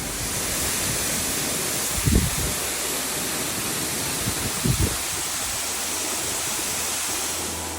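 Waterfall: a steady rush of falling water, with two brief low thumps about two and five seconds in.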